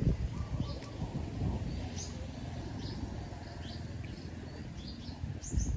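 Small birds chirping: short, high chirps repeating every half second or so, over a steady low rumble, with a dull thump at the start and another near the end.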